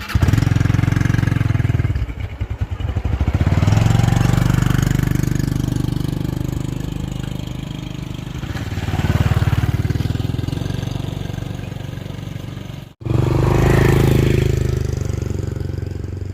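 Small motorcycle engine running, its revs rising and falling. It cuts out abruptly about thirteen seconds in and comes straight back.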